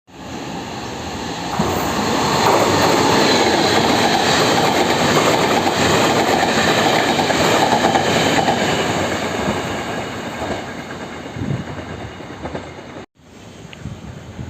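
A locomotive-hauled Chu-Kuang express passenger train passing through a station at speed: wheels on rail, rumbling and clattering over the rail joints. It builds to a peak and then slowly fades. It cuts off abruptly about thirteen seconds in, and the quieter sound of the next train begins.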